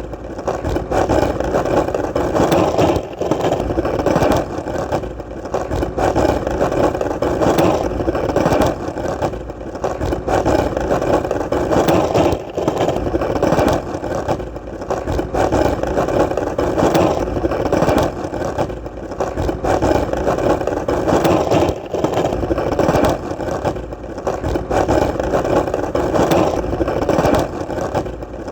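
Skateboard wheels rolling steadily on hard ground: a continuous rolling noise with brief dips in level every two or three seconds.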